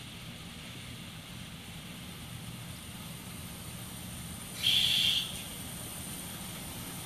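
DMZ-train diesel commuter railcar approaching with a steady low engine rumble. It gives one short, high horn blast about four and a half seconds in.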